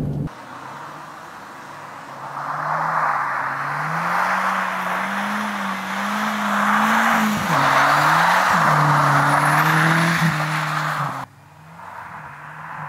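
Audi A4 Turbo Quattro rallycross car's engine heard from trackside: the revs climb over several seconds, drop sharply about halfway through, then climb again, with a rushing hiss over the engine. The sound falls away abruptly about eleven seconds in.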